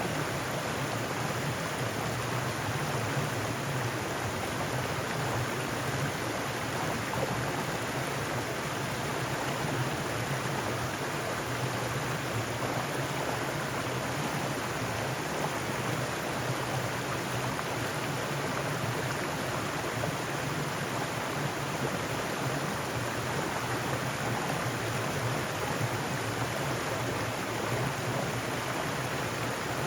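Mountain stream rushing and splashing over rocks: a steady, even water rush.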